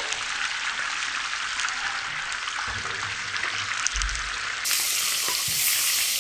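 Spice-coated chicken pieces deep-frying in hot oil in an iron wok (karahi), a steady sizzle and crackle.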